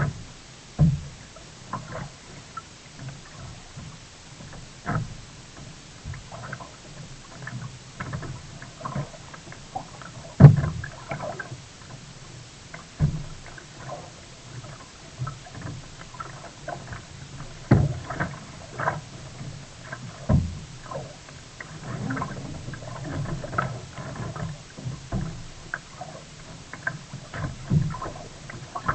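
Sea kayak on the water: irregular knocks and thuds, the loudest about ten seconds in, with small clicks in between.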